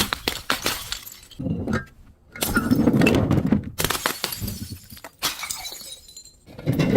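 Glass breaking in several separate bursts, with a dense crackle of shards clinking and grinding; the longest burst comes in the middle.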